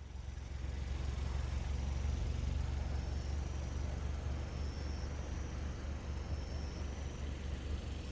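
Wind buffeting the microphone: a deep, uneven rumble with a rushing hiss over it, swelling into a stronger gust about a second in.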